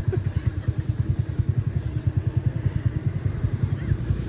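Motorcycle engine running with a rapid, even low pulse of about ten beats a second.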